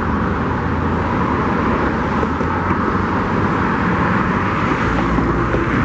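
Steady din of heavy trucks working on a construction site, their engines running continuously with no single event standing out.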